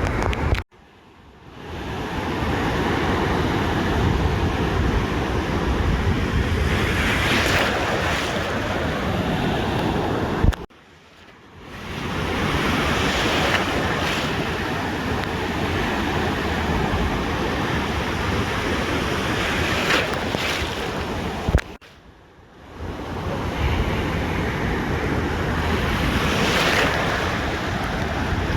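Ocean surf breaking on a beach, with wind buffeting the microphone; the wash swells every several seconds as waves break. Three times the sound cuts out suddenly for about a second, each time just after a click, then fades back in.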